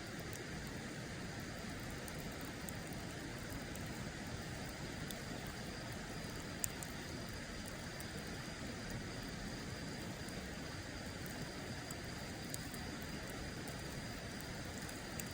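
Wood fire crackling: scattered sharp pops, the loudest about six and a half seconds in, over a steady rushing hiss.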